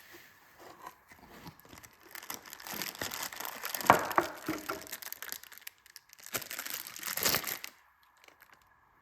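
Irregular crinkling and rustling in two stretches, with one sharp click near the middle.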